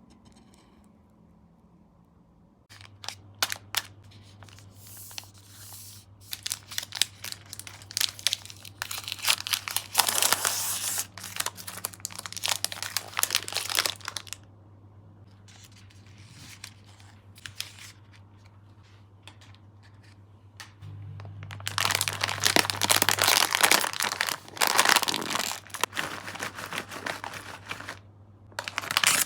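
Plastic sweet packaging crinkling and rustling in irregular bursts, with a quieter stretch in the middle, over a low steady hum.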